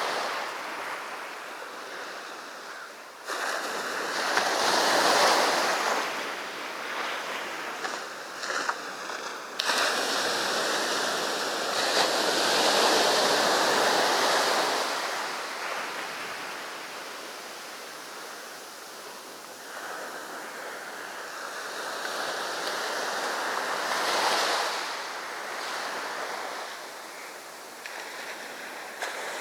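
Sea waves breaking and washing up a sandy beach, rising and falling in surges several seconds apart.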